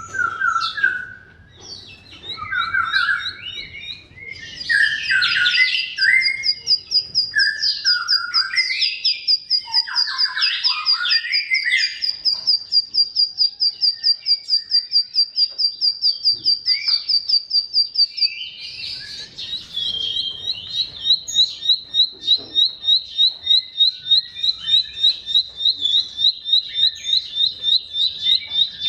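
Bar-winged prinia (ciblek) singing. It opens with varied chattering, warbling phrases, then runs into a long, fast string of identical high chirps at about four a second, which shifts to a slightly lower repeated note partway through.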